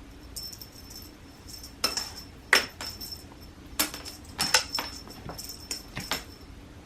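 A cat toy being played with: a light jingling that comes and goes, and from about two seconds in a run of about seven sharp taps and rattles.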